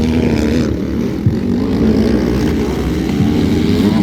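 Several motocross bikes' engines racing at once, their pitch rising and falling as riders work the throttle.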